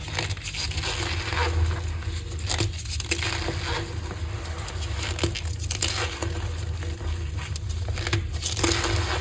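Green-dyed gym chalk being crushed, a continuous crackly crunching with stronger crunches every second or two, over a steady low hum.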